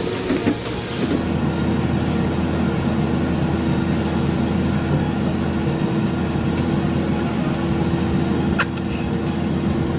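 Heavy machine's engine running steadily, a constant low hum that starts about a second in, with a brief tick near the end.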